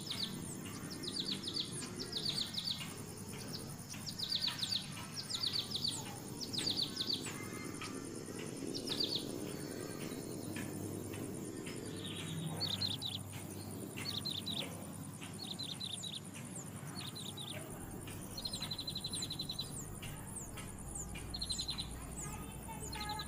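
Bird calls: clusters of two or three quick down-slurred high chirps through the first half, then short buzzy trills near the end, over a steady high insect drone.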